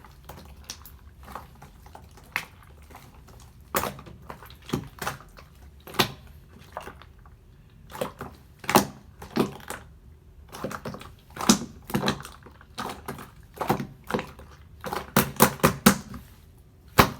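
Slime being squished and poked by hand, giving irregular sticky pops and clicks, with a quick run of them near the end.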